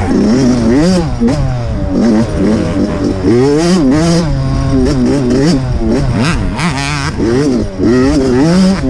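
Dirt bike engine rising and falling in pitch over and over as the throttle is opened and closed while it is ridden.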